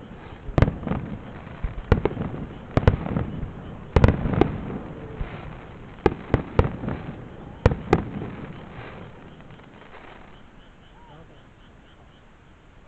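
Aerial fireworks bursting: a quick run of sharp booms with crackling in between, then the crackle trails off and dies away.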